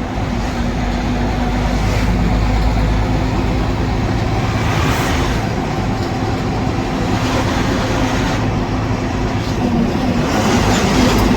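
Inside a semi-truck cab at road speed: a steady diesel engine drone with tyre and road noise, and a rushing noise that swells up several times, a few seconds apart.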